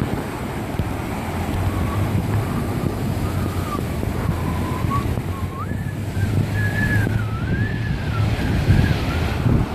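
Rushing water of a river in flood, with wind buffeting the microphone and a steady low hum underneath.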